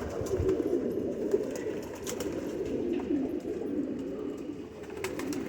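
Several male domestic pigeons cooing together in a loft, an overlapping, continuous low cooing; they are cocks excited by the hens flying overhead.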